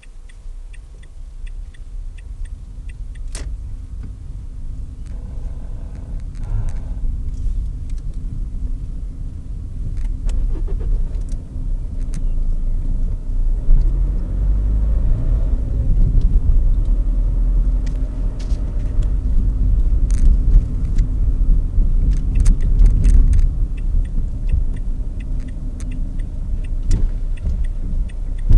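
Renault Clio dCi diesel engine running with a steady low rumble that gets gradually louder. About five seconds in, an odd noise from the engine bay comes and goes over about two seconds; its cause is unknown, and the owner is asking what fault it points to.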